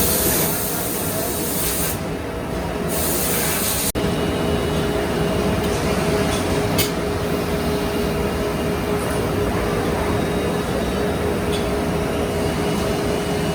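OKK VP 400 vertical machining center running, a steady two-tone whine over a mechanical hum. Two bursts of loud high hissing come in the first four seconds.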